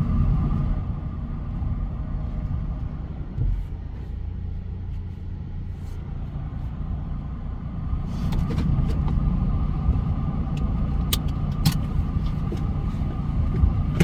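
Ford ute driving across a rough hay paddock, heard from inside the cab: a steady low rumble of engine and tyres. From about eight seconds in it grows louder, with a few sharp knocks and rattles.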